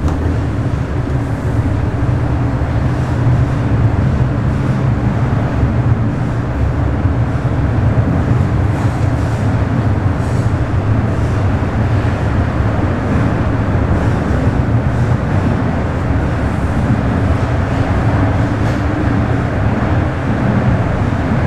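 Bombardier Toronto Rocket subway train running at speed between stations, heard as a steady low rumble of wheels on rail and running gear.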